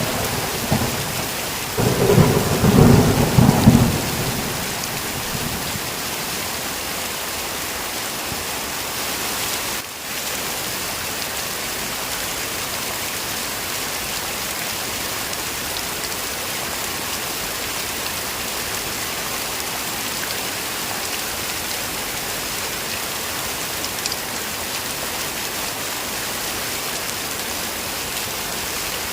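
Heavy rain falling steadily. A rumble of thunder in the first few seconds dies away about four seconds in.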